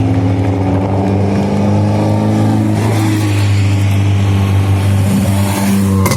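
Hillclimb race car engine running hard at a steady high pitch, with a sharp break near the end after which the engine note settles lower.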